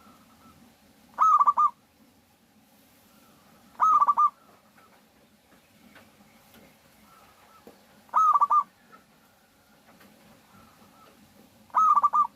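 Zebra dove (perkutut) cooing: four short calls a few seconds apart, each a quick run of clipped notes, used as a lure call to set other perkutut calling.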